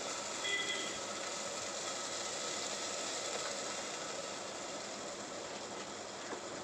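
Onion-tomato masala with curd sizzling steadily in an open stainless steel pressure cooker on a gas stove. A brief high tone sounds about half a second in.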